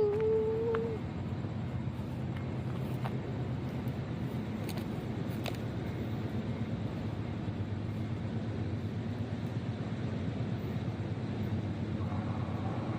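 Steady low rumble of a train passing a grade crossing with its gates down, with a single steady horn-like tone lasting about a second at the start.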